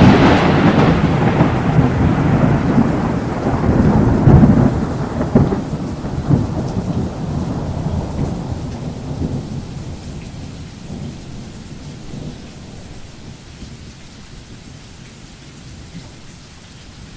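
A thunderclap rolling into a long rumble that slowly fades over about twelve seconds, leaving a steady hiss of rain.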